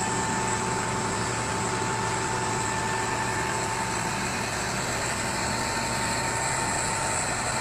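Heavy truck engine running steadily, with a constant whine above the engine hum.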